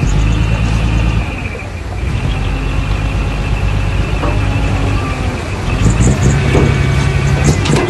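Heavy diesel engine of earthmoving machinery working: loud for the first second, easing off, then pulling hard again near the end, with a steady high whine and a few metallic clanks.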